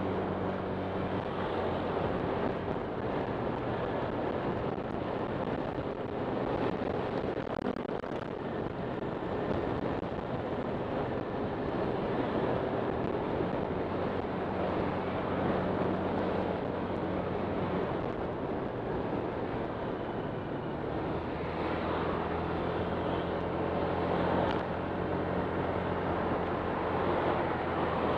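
Honda Click 125 scooter's single-cylinder engine running while riding, with road and wind noise; the engine hum shifts in pitch now and then with throttle.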